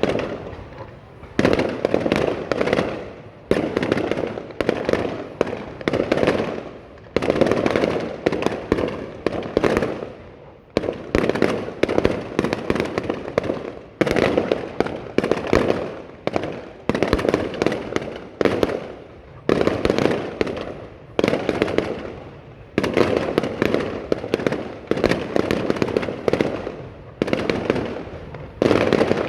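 Aerial fireworks bursting one after another, about one or two sharp bangs a second, each trailing off in a rumbling echo.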